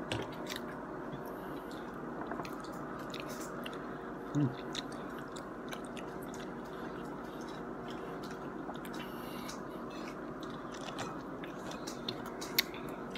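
A burrito in a soft flour tortilla being bitten and chewed, with scattered soft mouth clicks over a steady background hum. There is a brief low sound about four seconds in and a sharp click near the end.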